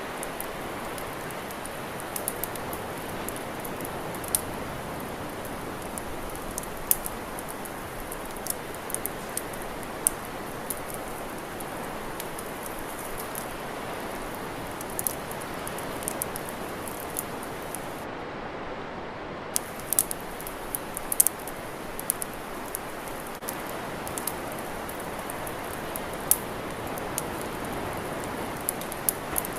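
Campfire crackling: irregular sharp pops and snaps, sometimes several close together, over a steady even hiss.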